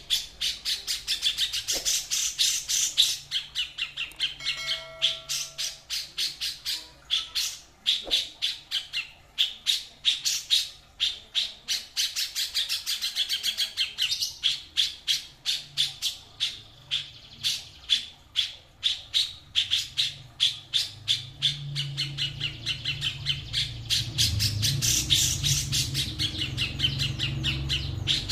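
A songbird calling in a long run of short, sharp, repeated chirping notes, several a second. A low rumble comes in under it about three-quarters of the way through.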